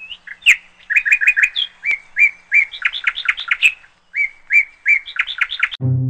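Small birds chirping: a quick run of short, repeated chirps, several a second. Near the end, music with low bowed strings comes in.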